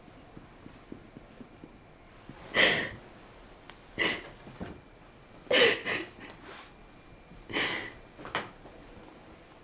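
A person sniffing and taking short, noisy breaths, about six of them spaced a second or two apart, with quiet in between.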